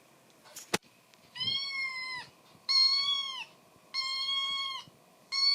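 Kitten meowing: four high, even calls about a second long, repeated every second and a bit, after a sharp click just under a second in.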